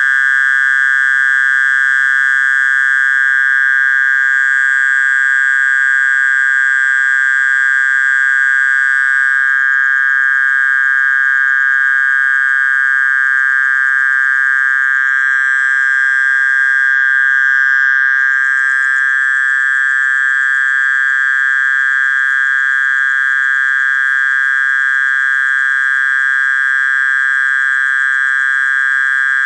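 Mole cricket (orong-orong) calling: a loud, steady, high-pitched buzzing trill that holds without a break.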